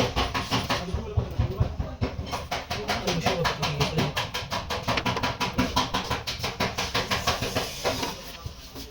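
Hammer tapping on a dented car body panel in fast, even strokes, about seven a second, fading away near the end.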